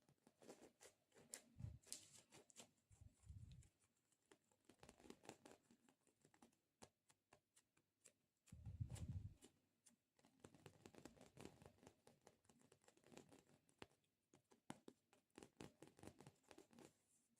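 Quiet, close-up ASMR sounds of sticky textures being touched and pulled apart: dense small crackling clicks, with a few soft low thumps in between.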